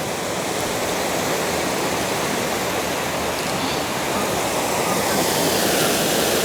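Rushing river water, a steady noise that grows slightly louder toward the end.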